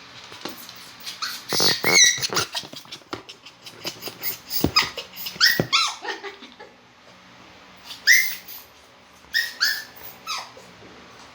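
A Poodle whimpering and yelping in short, high, rising-and-falling cries that come in several bunches, mixed with sharp clicks.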